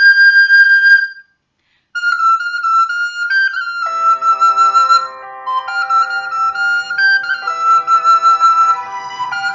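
Recorder playing a melody: a long high note that stops about a second in, a short break, then the tune resumes note by note about two seconds in. Lower sustained accompanying notes join about four seconds in.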